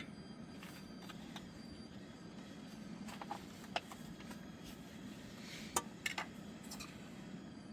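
Faint steady low hum with a handful of light clicks and clinks, most of them a little over halfway through.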